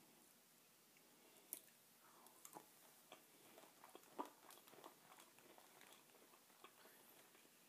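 A person chewing and crunching a scorpion from a Hotlix candy lollipop. Irregular small crunches and clicks start about a second and a half in, the loudest a little past the middle.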